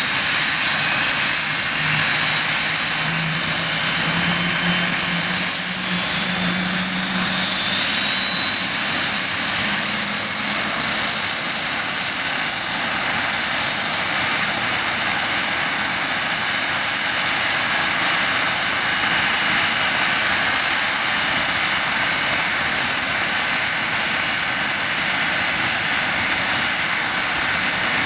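Nimrod MR2's Rolls-Royce Spey turbofan engines running on the ground: a loud, steady jet rush with a high whine that rises in pitch from about six to twelve seconds in, then holds steady.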